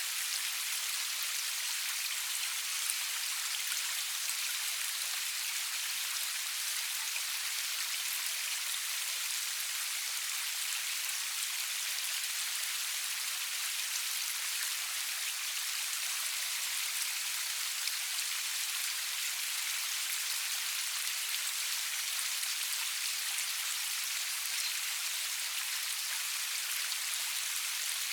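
Steady rain falling, an even hiss of many drops with a few faint individual ticks.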